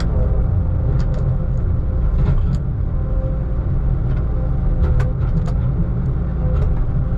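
Diesel engine of heavy logging equipment running steadily under work, a loud, constant low rumble with a steady hum over it. Occasional light clicks and knocks sound above it.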